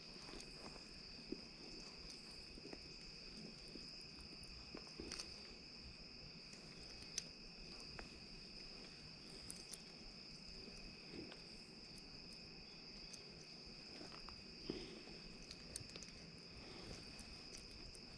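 Faint, steady insect chorus of crickets, a continuous high trill. Scattered faint clicks and ticks sound over it.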